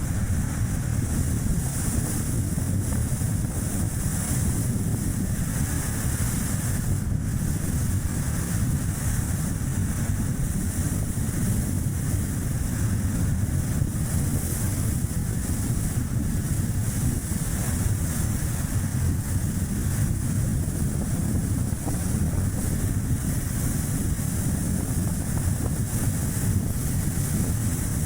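Steady rumble of strong wind buffeting the action camera's microphone, mixed with the road and tyre noise of a small car driving.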